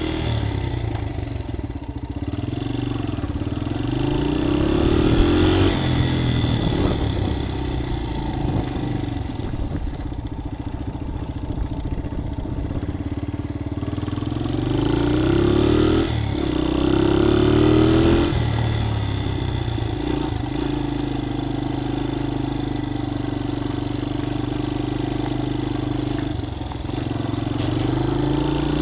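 Dirt bike engine running while the bike is ridden in first gear. The revs rise and fall several times as the throttle is opened and closed, with sudden drops in revs about sixteen and eighteen seconds in.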